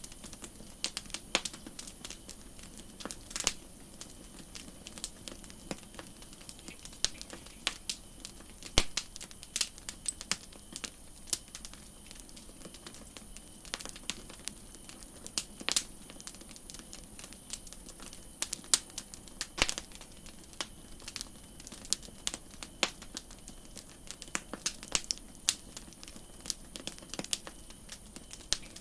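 Campfire crackling: wood popping and snapping in irregular sharp cracks, several a second at times, over a steady low hiss.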